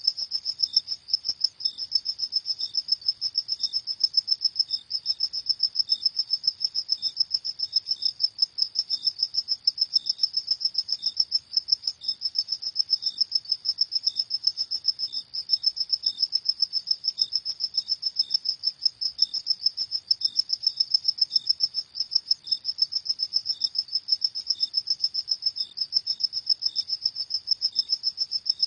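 Crickets chirping: a continuous stream of rapid, high-pitched chirps, with a fainter, lower-pitched chirp now and then.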